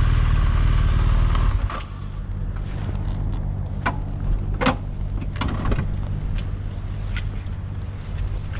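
BMW R1200GSA's boxer-twin engine under way: loud engine and wind noise for about the first second and a half, then it drops to a quieter, steady engine note. A few sharp clicks and knocks come through over it.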